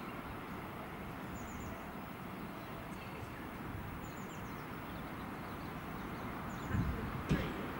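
Steady low rumble of electric multiple-unit trains approaching in the distance. A small bird repeats a short, high three-note chirp about every two and a half seconds, and a couple of brief louder thumps come near the end.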